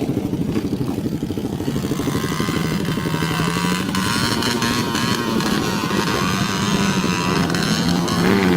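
Dirt bike engines running, with uneven throttle changes; a second engine note joins a few seconds in, its pitch wavering up and down as it is revved.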